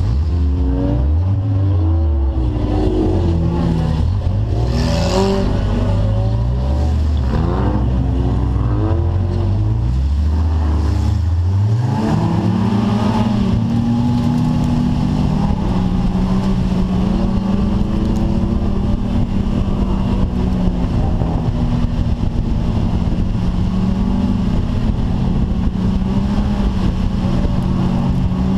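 Rover 45 banger racing car's engine heard from inside the cabin. For about the first twelve seconds it revs up and falls back again and again, with a short harsh noise about five seconds in, then it runs at a steady pitch as the car drives along the track.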